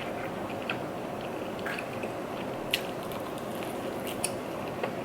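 Close-miked chewing and biting of food, wet mouth sounds with a few sharp clicks spaced about a second apart.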